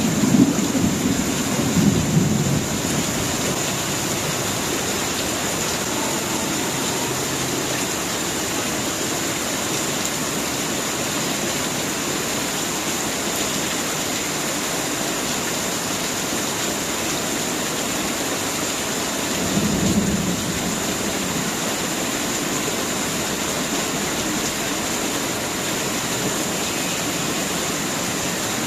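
Heavy rain pouring steadily, with a low rumble in the first couple of seconds and another brief one about twenty seconds in.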